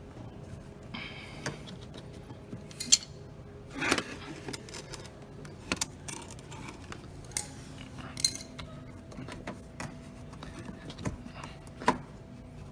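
Irregular sharp clicks and light metallic clinks of parts and tools being handled in the dishwasher's base, the loudest about three seconds in and near the end.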